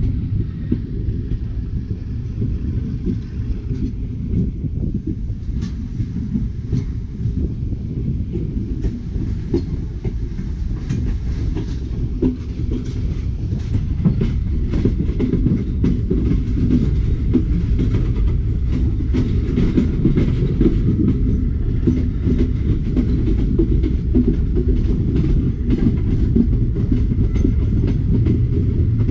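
Moving passenger train heard from an open carriage doorway: a steady rumble of wheels on the rails with scattered clicks and knocks from the track, growing a little louder about halfway through.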